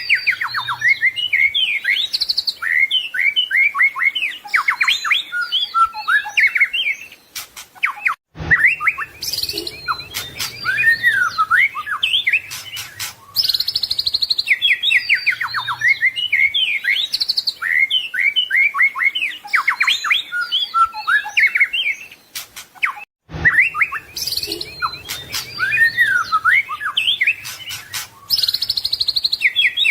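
White-rumped shama (murai batu) singing rapid, varied phrases of whistles, trills and chirps. The song is a recording that loops about every 15 seconds, with short breaks about 8 and 23 seconds in.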